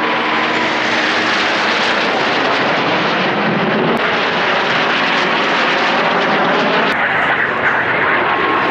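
Aircraft flying overhead at an airshow: a loud, steady engine noise.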